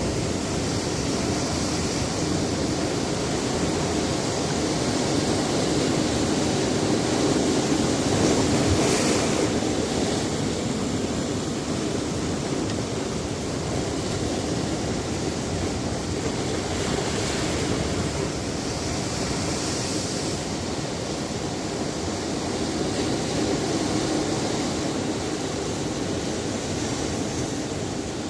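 Sea surf on a rocky shore: waves breaking and washing in a continuous rushing noise. Louder hissing surges of spray come about a third of the way in and twice more past the middle.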